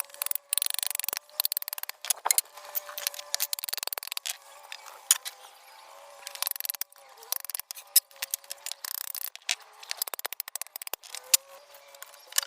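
Pieces of firewood clacking and knocking together as they are handled, in quick irregular runs of sharp clicks, over a faint steady hum.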